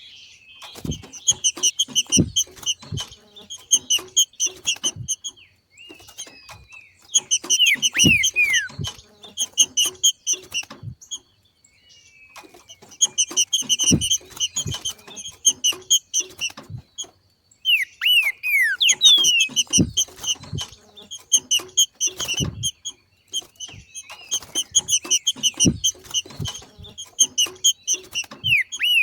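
Green-winged saltator (trinca-ferro) giving its 'macheado' call: rapid chattering phrases of a few seconds each, repeated five times with short pauses, some opening with quick falling whistles. Light low thumps come in during the phrases.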